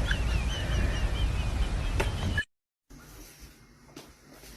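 An animal chirping: a quick run of short, high, wavering chirps over a steady low rumble, cut off abruptly about halfway through. A much quieter stretch with a few light clicks follows.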